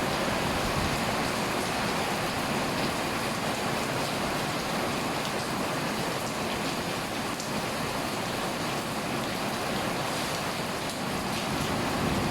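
Heavy rain pouring down steadily, a dense hiss of drops hitting the ground and surfaces.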